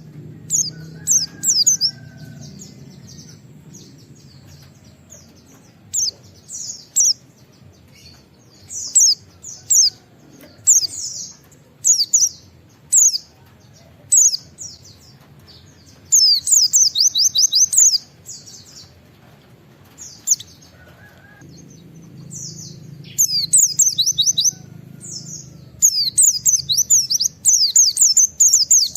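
White-eye (pleci) singing short, high-pitched phrases again and again, breaking into fast runs of sharp 'wit wit' notes, the keepers' 'nembak' phrases, at about the middle and through most of the last few seconds.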